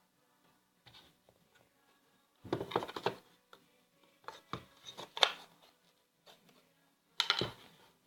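Small parts of a birdhouse kit being handled and fitted together on a table: scattered clicks and rattles in three short clusters, with a few faint ticks before them.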